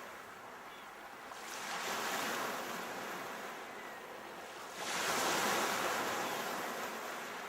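Sea waves breaking and washing in. One wave swells about a second and a half in, and a louder one breaks suddenly near the five-second mark.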